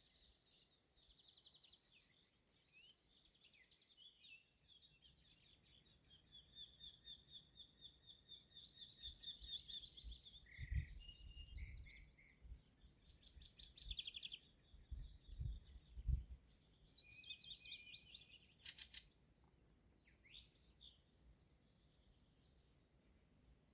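Songbirds singing, a steady stream of fast trilled and warbled phrases, high-pitched and faint. A few short low thumps come in the middle.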